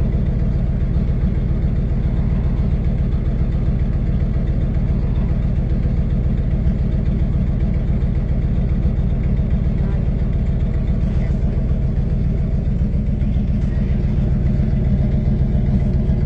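Tow truck engine idling steadily with a deep, even rumble; the truck runs loud because of a muffler that still needs fixing.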